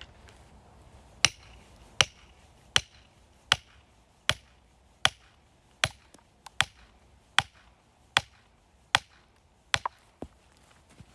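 A steady series of sharp chopping strikes on firewood, about one every 0.8 seconds and roughly a dozen in all, beginning about a second in.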